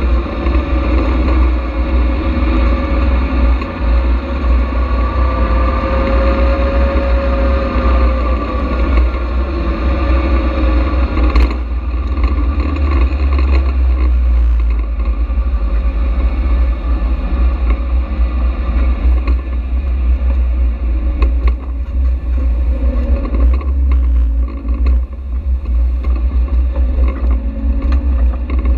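Caterham Seven's engine heard from its open cockpit, the note rising and falling through the first dozen seconds, then running steadier and lower. Heavy wind rumble on the microphone throughout.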